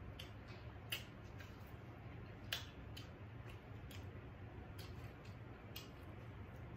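Quiet chewing with scattered soft mouth clicks and smacks, a few a second at most, over a faint steady low hum.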